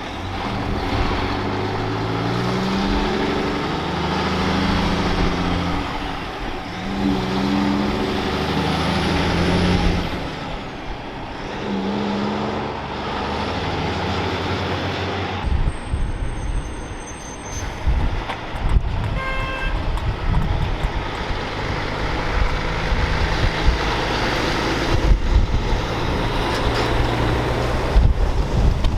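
Heavy diesel truck pulling away through the gears, its engine note climbing and then dropping back at each of several gear changes. It is followed by a rougher rumble of truck traffic with wind on the microphone, and a brief horn toot about two-thirds of the way through.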